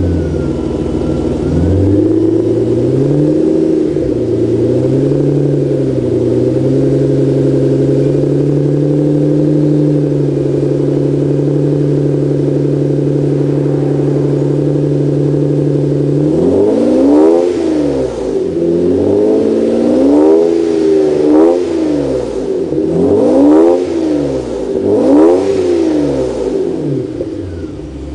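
1991 BMW 850i's 5.0-litre V12 running through a Dinan / AC Schnitzer exhaust. It idles, wavering slightly in the first few seconds and then holding steady, and from a little past halfway it is revved in a run of quick throttle blips, each rising and falling in pitch.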